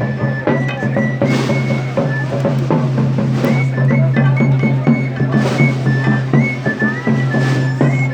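Procession music: a high, thin, whistle-like melody stepping between a few notes, with scattered drum strikes over a steady low hum.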